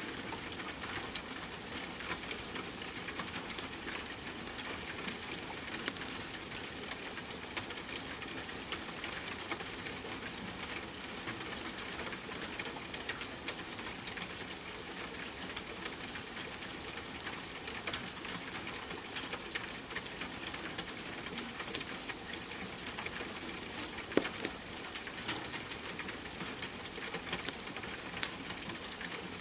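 Steady rain patter mixed with a wood fire crackling, its fine ticks broken by a few sharper pops.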